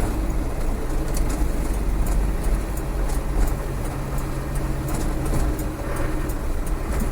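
Land Rover 300Tdi 2.5-litre turbodiesel running while driving at a steady pace, a low rumble that holds its pitch.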